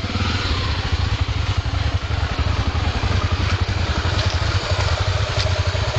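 Honda Tornado XR 250's single-cylinder four-stroke engine running steadily, a rapid even train of firing pulses.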